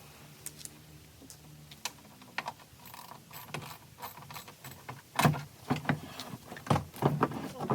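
Irregular clicks and clanks of tools and metal parts being handled, sparse at first and turning into louder, quicker knocks about five seconds in.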